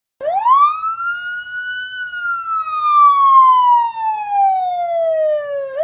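Police siren wailing: one long cycle, its pitch climbing quickly, then falling slowly, and starting to climb again at the end.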